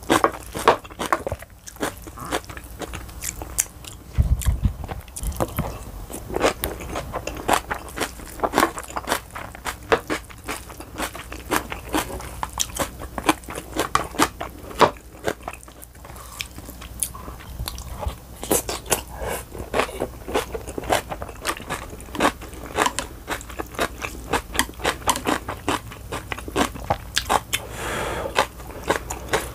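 Close-miked chewing of mouthfuls of bibimbap mixed with crunchy radish-greens kimchi: a steady run of wet, sharp mouth clicks and crunches, a few each second, with a short breathy rush near the end.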